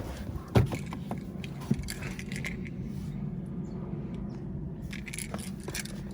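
Car keys jangling, with a few sharp clicks and knocks of handling over a steady low hum.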